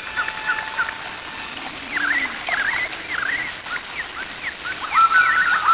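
Songbirds chirping and whistling, many short calls overlapping, with a long held whistle near the end; the sound cuts off abruptly.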